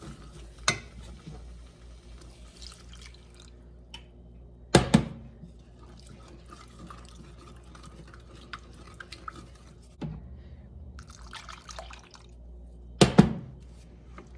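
Milk being poured into a skillet of butter-flour roux and whisked in, with liquid splashing and light clinking from the whisk. Several sharp knocks of utensil on pan stand out, loudest about five seconds in and again about thirteen seconds in.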